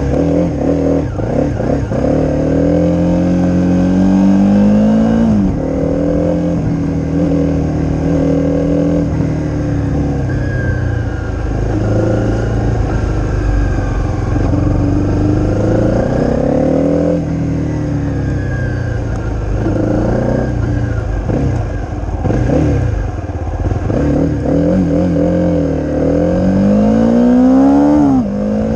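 Honda CRF250's single-cylinder four-stroke engine running through an aftermarket Leo Vince exhaust under way. The pitch climbs as it accelerates and falls away several times, as at gear changes or easing off.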